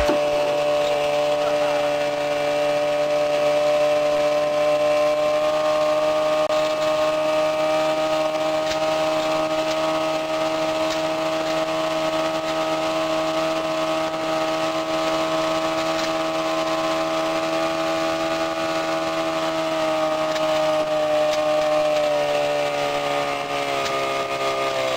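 Motorboat engine running steadily at high speed, as when towing a banana boat, its pitch dropping slightly near the end as it eases off.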